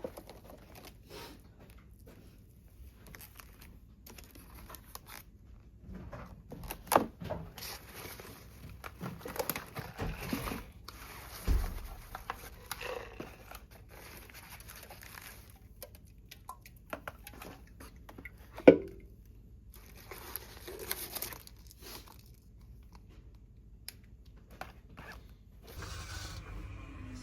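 Objects being handled in a small room: scattered clicks and knocks with rustling and crinkling, and a sharp knock a little past the middle.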